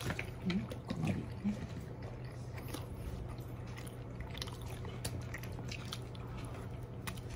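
A person biting into and chewing a cheese-wrapped frankfurter pastry, with small wet mouth clicks scattered throughout, over a steady low hum.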